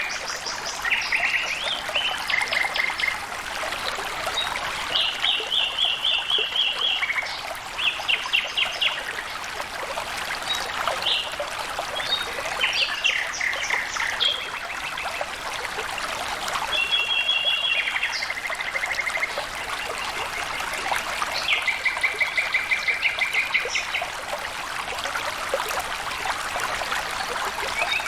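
Water flowing and trickling steadily, with birds singing fast trills of rapidly repeated notes over it, several times.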